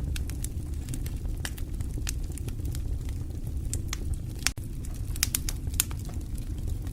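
Wood fire burning in a fireplace, crackling with irregular sharp pops over a steady low rumble of the flames. A split-second dropout in the sound comes about four and a half seconds in.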